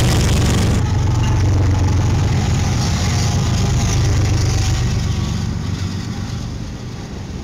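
BNSF diesel freight locomotives passing close at speed, with a loud, steady, deep engine rumble and the rush of the train going by. The hiss drops away abruptly about a second in, and the sound eases off over the last couple of seconds.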